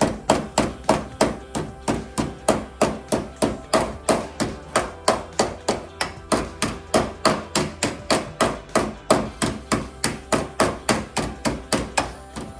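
Hammer blows on the bent steel of a 1968 Volkswagen Beetle's floor pan area, flattening the metal before welding, in a steady run of about four strikes a second.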